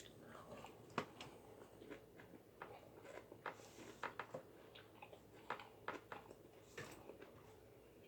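Faint chewing and mouth sounds of a person eating, with scattered small clicks and smacks, the sharpest one about a second in.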